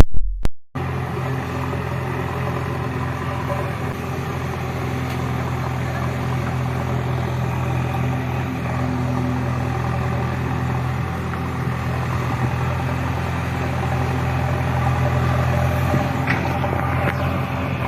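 A heavy diesel engine running steadily at a constant speed, after a brief loud burst at the very start.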